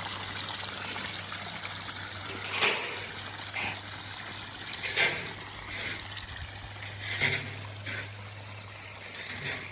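Water trickling and splashing over the rocks of a backyard pondless waterfall, with a few louder splashes and a steady low hum underneath.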